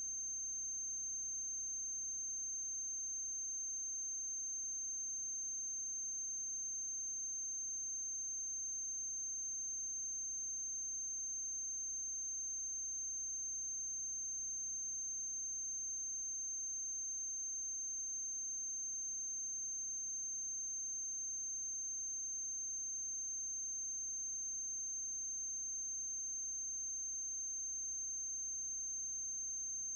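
Steady high-pitched electronic tone over a low mains hum, unchanging throughout: transfer noise on the track of a silent film, with no sound of its own.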